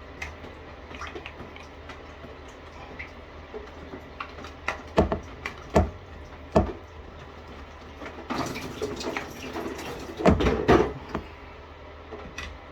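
A shower head being unscrewed and handled at the shower arm, with a few sharp knocks and clicks and water dripping. About two-thirds of the way through comes a short rush of water with more clatter.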